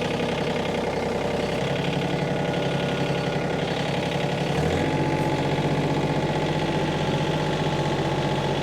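Minneapolis-Moline tractor engine running steadily, stepping up to a higher speed a little past halfway and holding there.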